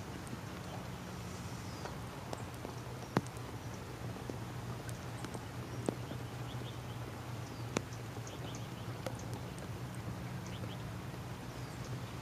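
Steady rain-and-wind background with a low hum, broken by a few sharp, isolated taps of raindrops and some faint high chirps.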